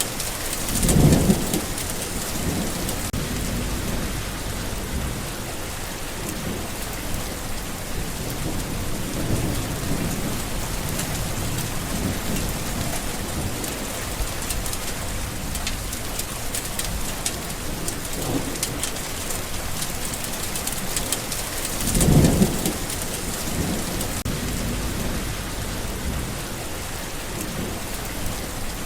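Steady heavy rain falling, with low rumbles of thunder; two louder thunder rolls come about a second in and again about three-quarters of the way through.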